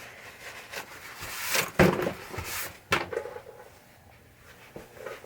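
Hand-handling sounds of small parts being wiped and rubbed clean. There is scuffing from about a second in and a sharp tap at about three seconds, then quieter handling.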